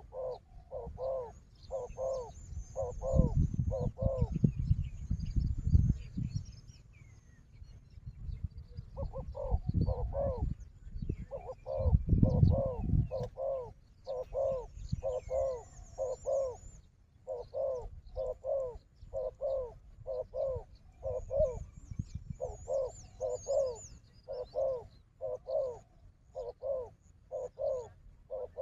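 Spotted dove cooing over and over in short, evenly spaced notes, pausing for a few seconds before resuming. Two bouts of loud low thumping and rustling come during the first half.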